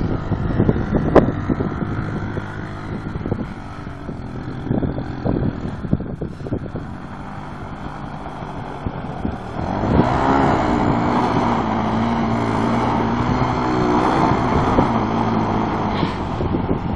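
ATV engine running, with wind on the microphone; about ten seconds in it revs up and holds a louder, higher note.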